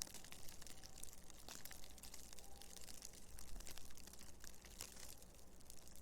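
Blizzard ambience: a steady hiss of wind-blown snow with many small crackling ticks scattered through it.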